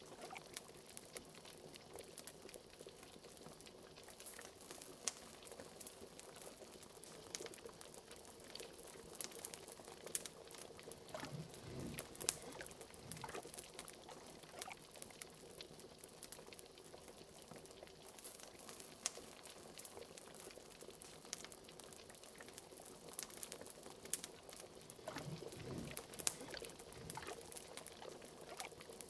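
Liquid bubbling at a steady boil, with a few deeper plopping bubbles, under scattered sharp crackles of a wood fire.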